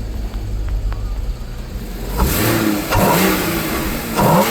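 Porsche Cayman flat-six engine idling steadily, then blipped three times in quick succession in the last couple of seconds. It runs smoothly on a fresh coil pack that fixed a cylinder 3 misfire.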